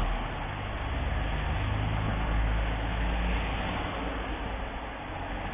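Motor vehicle engine running with steady road and wind noise. A low engine drone swells about two seconds in and fades a little over a second later.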